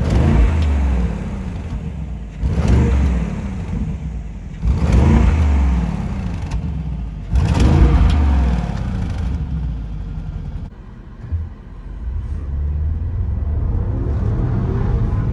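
Bentley Bentayga's 4.0-litre twin-turbo V8 revved four times, about two and a half seconds apart, each blip falling back down. It settles to a steady idle about two-thirds of the way through.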